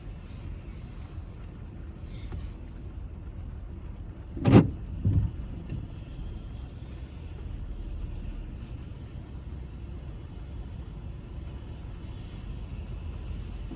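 Car driving, with steady low road rumble, likely heard from inside the car. A sharp knock comes about four and a half seconds in, with a smaller one just after.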